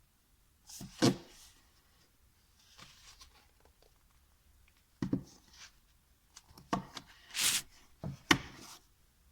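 Household handling sounds: a series of short knocks as hard objects are set down, and a brief scraping slide a little after halfway.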